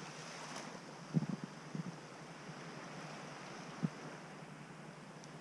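Steady faint hiss of outdoor noise, with a few soft low thumps about a second in, near two seconds and near four seconds.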